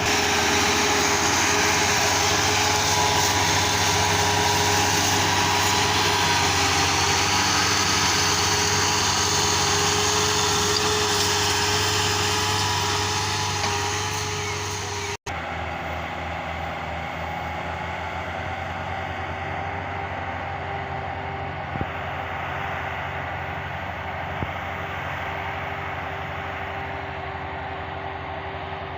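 Tractor diesel engine running steadily. It breaks off sharply about halfway through and carries on a little quieter.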